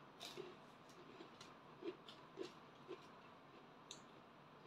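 Faint sounds of a person chewing prawn crackers, with a few short crisp clicks and soft wet mouth sounds spaced through.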